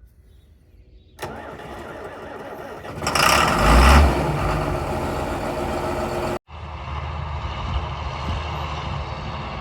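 John Deere 4955 tractor's six-cylinder diesel engine starting: sound comes in suddenly about a second in, surges loudly as the engine catches around three seconds in, then settles into steady running. It cuts out abruptly for an instant past six seconds and then runs on steadily.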